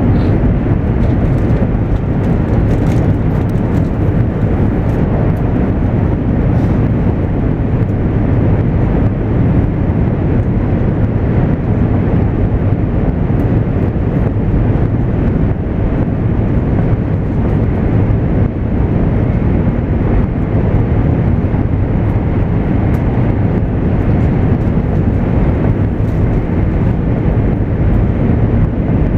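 Steady in-cabin running noise of a JR East 200 series Shinkansen train at speed: a low, even rumble of wheels and track with air noise, unchanging throughout.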